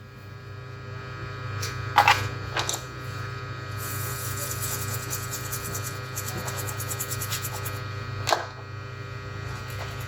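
Steady electrical hum from workbench equipment, with two sharp clicks, about two seconds in and near the end, and a fast, fine high-pitched rattle for a few seconds in the middle.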